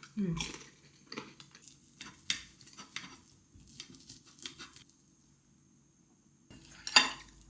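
Cutlery clicking and tapping against dishes while eating: scattered light knocks for several seconds, a short pause, then one sharper clink near the end.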